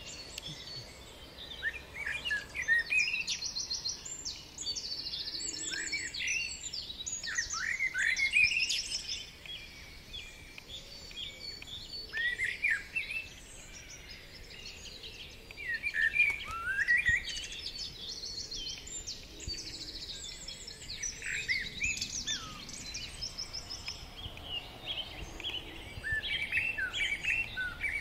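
Songbirds singing: short, high chirping phrases that fall in pitch, repeated every few seconds.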